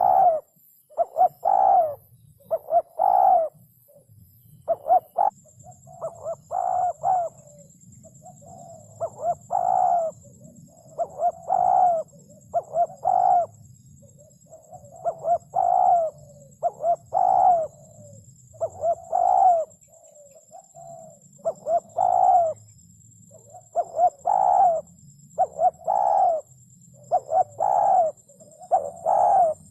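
Spotted dove (cu gáy) cooing over and over, short pitched coos given in phrases of two to four notes with brief pauses between phrases.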